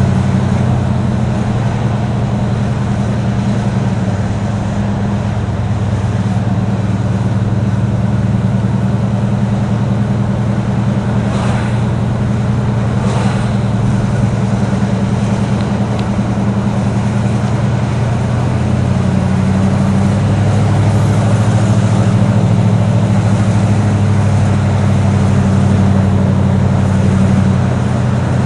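A 1972 Buick Riviera's 455 cubic-inch V8 with factory dual exhausts running steadily on the move, heard from inside the cabin as a low, even drone with tyre and road noise. The engine note shifts slightly about five seconds in and again near twenty seconds.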